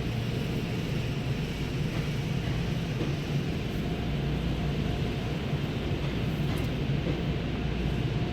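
Steady low hum and rumble heard from inside a car's cabin at an automatic car wash, the car idling in neutral.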